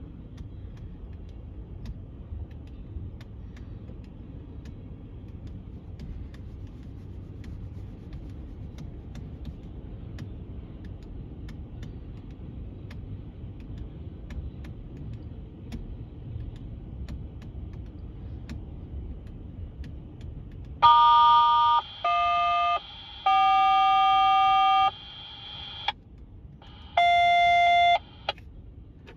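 Tank car train rolling past with a steady low rumble and scattered clicks from its wheels. About 21 seconds in, a scanner radio plays four touch-tone (DTMF) beeps, the third one long: a crew dialling up the dispatcher over the railroad radio.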